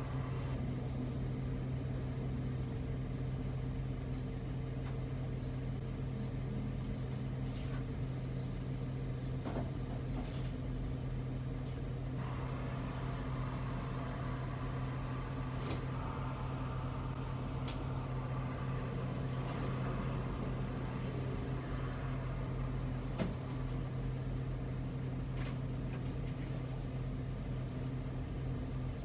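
Car engine idling steadily, heard from inside the parked car's cabin, with a few faint knocks now and then.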